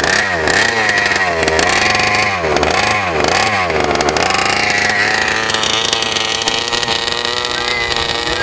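Small two-stroke gas engine of a 1/5-scale RC truck being revved in quick blips, about two a second, then held at a high, steady rev from about four seconds in.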